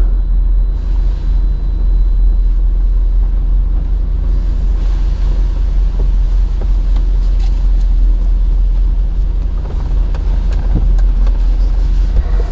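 2007 Mercedes G55 AMG's supercharged V8 idling with a steady low rumble, heard from inside the closed cabin; about five seconds in, a hiss of car-wash spray on the body joins it.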